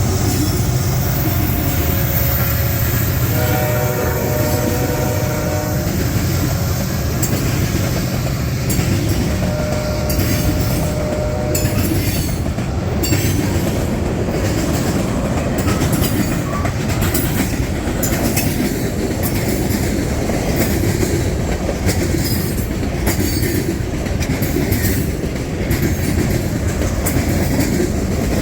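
A train passes close by with a heavy rumble. The locomotive horn sounds a chord for about two seconds starting around three seconds in, then gives a shorter blast around ten seconds. After that, the wheels click steadily over the rail joints as the cars roll past.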